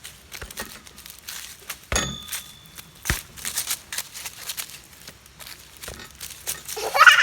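Scattered knocks and taps of something being hit. One strike about two seconds in rings briefly with a metallic tone, and another solid knock follows a second later. A child's rising cry comes near the end.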